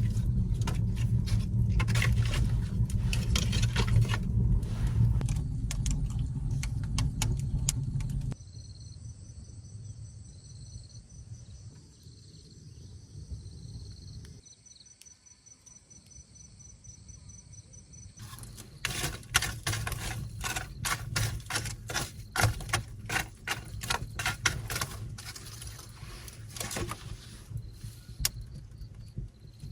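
Wood fire crackling and popping over a low rumble. It breaks off abruptly about eight seconds in, leaving insects trilling with a steady pulsing chirp, and the crackling returns abruptly about ten seconds later.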